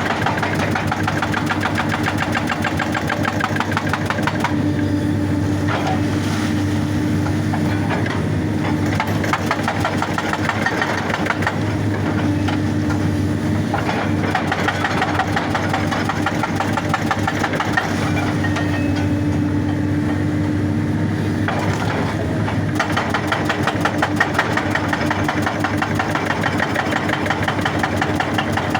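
Excavator-mounted hydraulic rock breaker hammering rock in a rapid, continuous rattle over the excavator's running diesel engine. The hammering thins out from about four seconds in and comes back at full density near the end.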